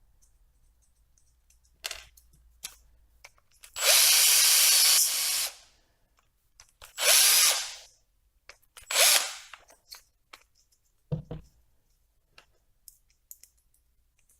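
Power drill run in three short bursts, the first and longest lasting about a second and a half, cutting a chamfer into the screw hole of a 3D-printed plastic part. Scattered clicks and a low thump come between and after the bursts.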